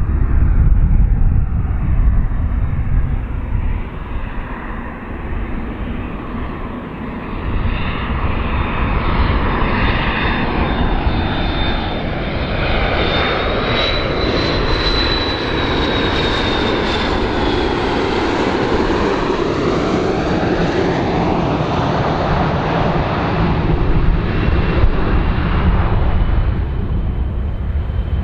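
A large airplane's engines running loud and steady as it passes by, with a high whine that rises and then falls about midway through.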